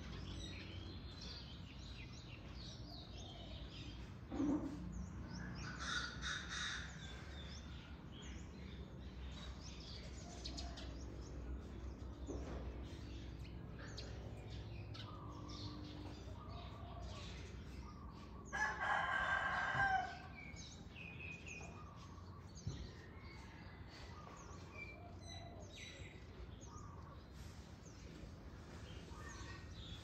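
Birds calling: scattered short chirps, with one loud call lasting about a second and a half about two-thirds of the way through, over a steady low background hum.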